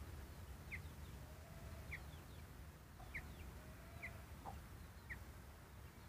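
Faint short bird chirps, about one a second, with two fainter drawn-out calls lower in pitch beneath them.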